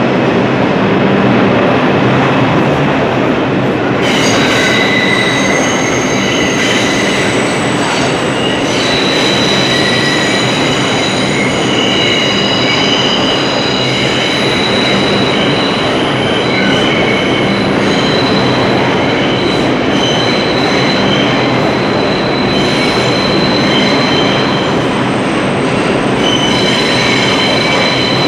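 Train running on rails with loud, steady rumbling noise; from about four seconds in, its wheels squeal in several high, shifting tones that come and go.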